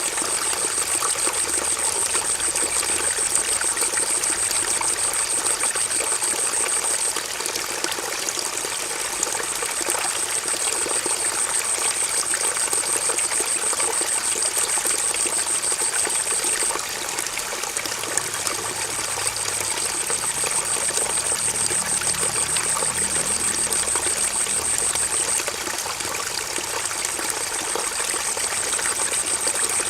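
Stream water flowing and trickling steadily. Over it runs a steady high-pitched trill in long stretches of several seconds, which stops briefly about seven seconds in, again past halfway, and for a few seconds near the end.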